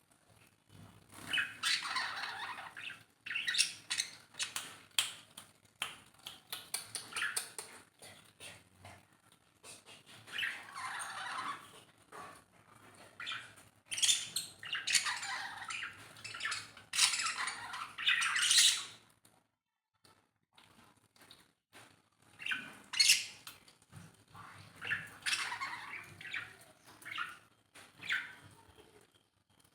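Pet lovebirds chirping and squawking in quick bursts of shrill calls. There is a lull of a few seconds about two-thirds of the way in, then the calls resume.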